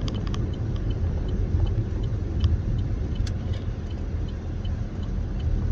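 Steady low rumble of a car running on the road, with a few faint clicks.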